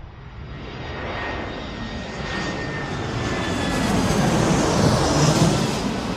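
BAE Hawk T1 jets flying past. The jet engine noise builds steadily over about five seconds to a loud peak, then begins to fade.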